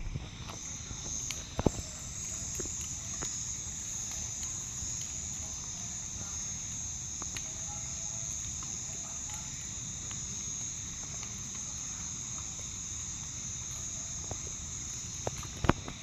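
Insects trilling steadily at a high pitch, with scattered sharp pops of a wood bonfire crackling, two of them louder, about two seconds in and near the end.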